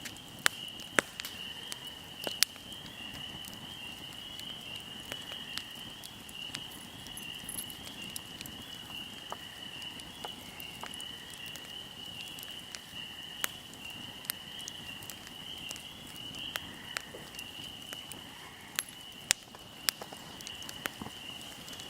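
Fire crackling: scattered sharp pops and snaps over a low rustling bed, with a few louder snaps near the start and again near the end. A steady high trill of insects runs behind it.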